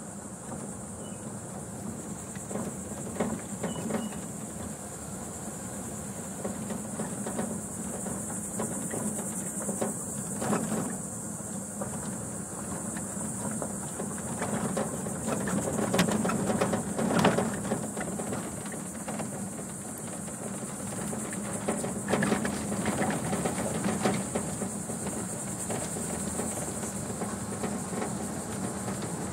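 Slow-moving truck running with a low steady hum and occasional knocks and rattles, under a steady high-pitched drone of insects.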